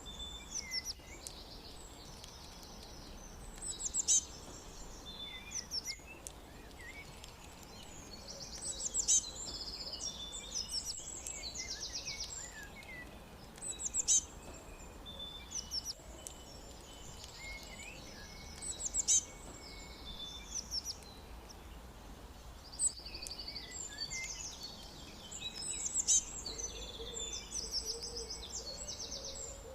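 Several songbirds chirping and trilling, with a loud burst of calls recurring about every five seconds, over a faint steady low rumble.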